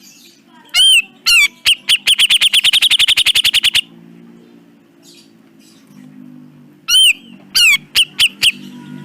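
Cucak jenggot, a bulbul, calling with loud, sharp, arched notes. Two single calls are followed by a fast rattling run of about ten notes a second that lasts nearly two seconds. After a pause, a string of separate calls comes near the end, over a low steady hum.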